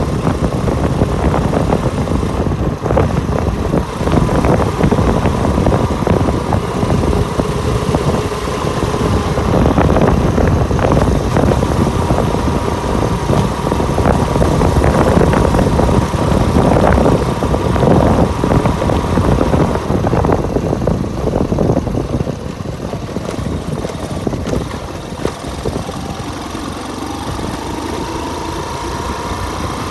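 Motorcycle engine running steadily while riding, with rumble and wind noise. It eases off a few seconds before the end, then rises in pitch as the bike speeds up again.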